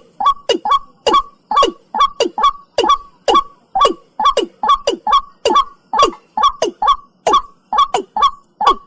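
Watercock (cúm núm) call repeated over and over, a quick series of short notes, each sliding down in pitch, about three a second. It is a recorded call of the kind played to lure the birds.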